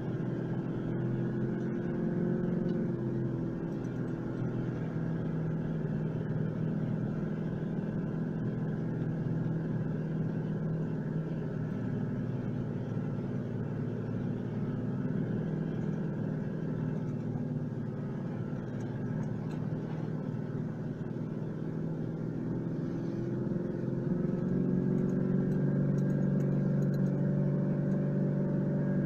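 Four-wheel-drive vehicle's engine running steadily as it drives along a dirt track, heard from inside the cabin. Near the end the engine note shifts and gets a little louder.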